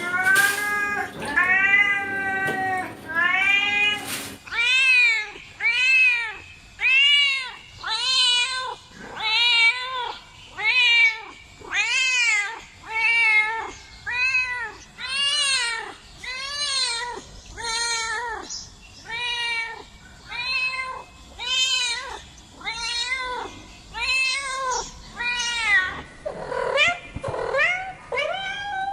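Cats meowing over and over, about one meow a second, each call rising then falling in pitch. A different cat's voice takes over about four seconds in, and another near the end.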